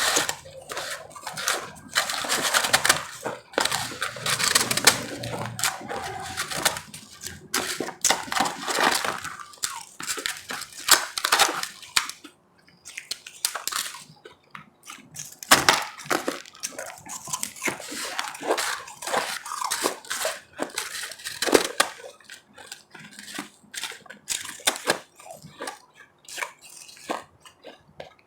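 Hard ice being bitten and chewed, a run of irregular sharp crunches with brief pauses between mouthfuls.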